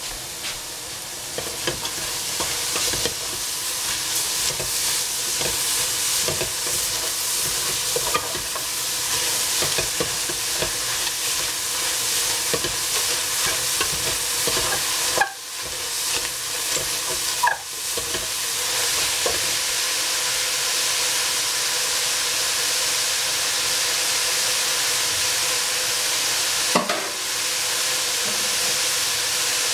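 Cabbage frying in a pan: a steady sizzle full of small crackles as it is stirred. Three louder, sharp clatters stand out, about halfway, a couple of seconds later, and near the end.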